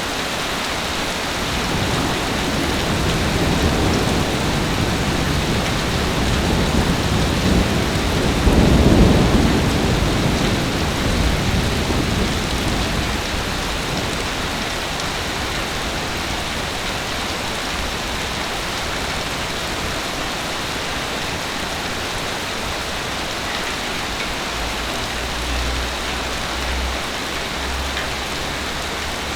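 Heavy rain falling steadily, with a long roll of thunder that builds a couple of seconds in, peaks near the middle and fades away, and a fainter low rumble again near the end.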